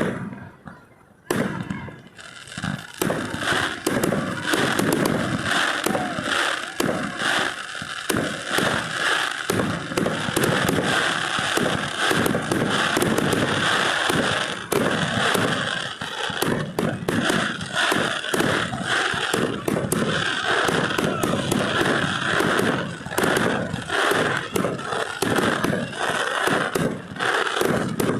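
Fireworks display: a single bang, then from about a second in a dense, continuous crackle of many rapid pops and bangs.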